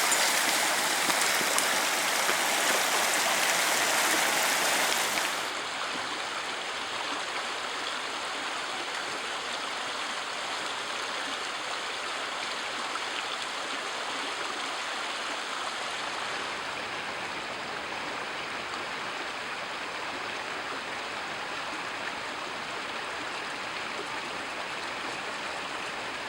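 Rushing water of a fast mountain stream, a steady even noise. About five seconds in it drops clearly quieter and duller, and then stays steady.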